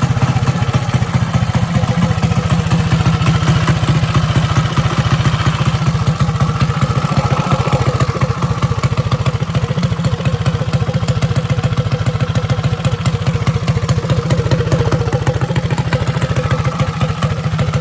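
Drag minibike's small single-cylinder four-stroke engine running loud and steady, its rapid firing pulses holding at a fairly even speed.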